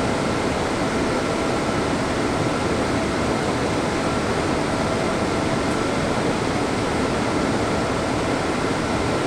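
Steady flight-deck noise of a Boeing 787 Dreamliner in the climb: an even rush of air-conditioning and airflow, with faint steady tones running under it.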